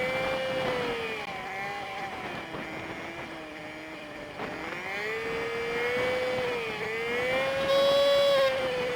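Honda Super Cub 50's small single-cylinder engine under way, its pitch falling and rising with the revs as the bike slows, shifts and pulls away. It is played at five times speed, so it sounds like a high, fast whine.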